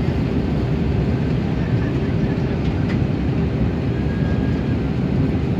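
Airbus A320neo airliner cabin noise: the steady sound of the engines and rushing air, heard from inside the cabin, with a faint steady hum underneath.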